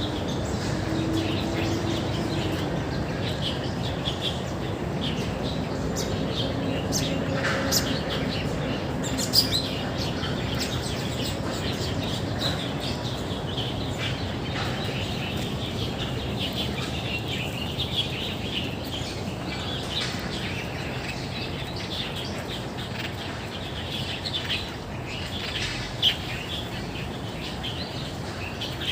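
Many songbirds chirping and calling at once, over a steady low background rumble, with a couple of sharp clicks.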